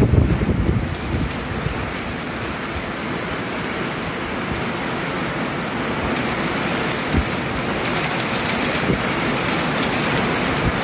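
Heavy rain pouring steadily in a strong thunderstorm. Low buffeting in the first second is strong wind gusting on the microphone.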